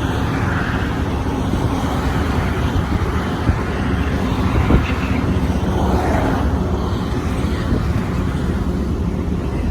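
Train running, a steady low noise with one short knock about five seconds in.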